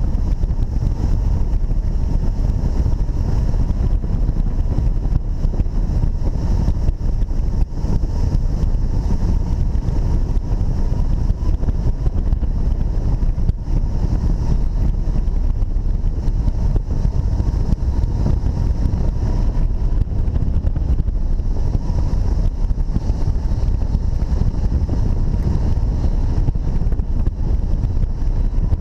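Strong wind buffeting a camera microphone on a hang glider in flight: a loud, steady, low rumble of wind noise. A faint steady tone sits under it.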